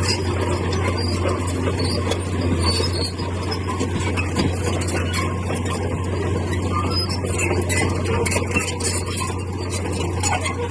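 Bulldozer's diesel engine running with a steady low hum, with high squeaks and clicks scattered over it throughout.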